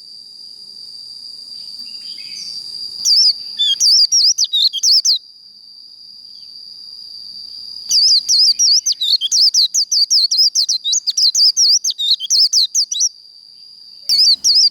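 White-eye (vành khuyên) singing its rapid, high twittering 'líu' song in three bursts, the longest lasting about five seconds, over a steady high whistle-like tone that runs throughout.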